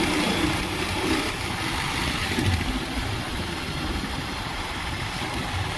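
Bajaj Pulsar 220 motorcycle's single-cylinder engine running while being ridden, under a steady rush of noise.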